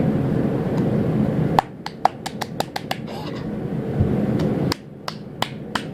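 Slime being squeezed and worked in the hands, giving quick runs of sharp clicks and pops in two bursts. A steady hum underneath cuts out about a second and a half in.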